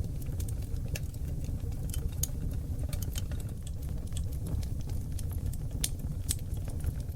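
Oak log fire burning in a fireplace: a steady low rumble of flames with frequent sharp crackles and pops. A few louder pops come in the second half.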